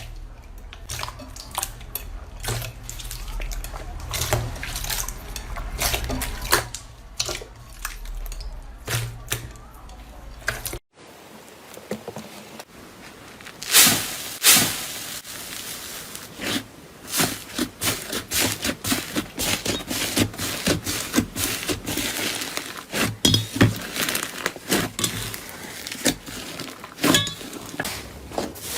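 Slime being squeezed and pressed by hand: a dense, irregular run of wet clicks and pops, with an abrupt change in the sound about eleven seconds in.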